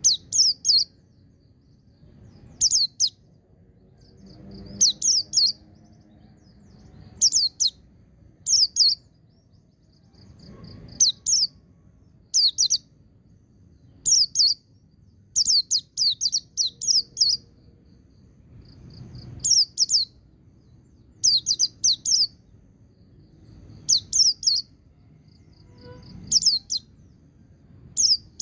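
Pleci (white-eye) singing in short, rapid bursts of sharp, high chirping notes, a burst about every one and a half to two seconds. This is the fast "ngecir" song joined to the wilder "ngalas" phrasing that keepers play to caged pleci to set them singing.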